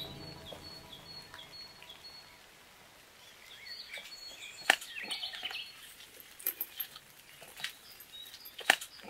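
Small birds chirping in woodland, short high calls scattered through, with a few sharp clicks in the second half.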